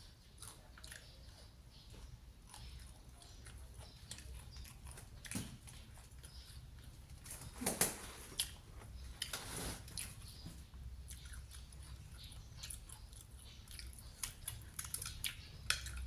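A person chewing and biting into crispy, batter-fried food close to the microphone, with irregular crunches and small mouth clicks. The loudest bites come about halfway through, over a steady low hum.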